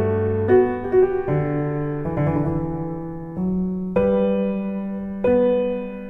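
Background music: slow piano, its chords struck every second or so and left to ring and fade.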